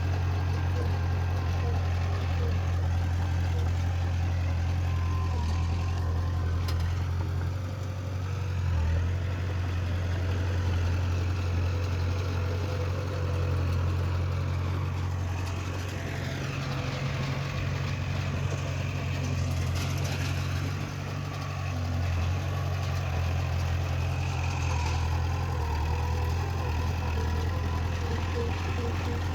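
Engine of heavy earthmoving machinery running steadily with a deep, even hum, its pitch shifting slightly partway through as the load changes.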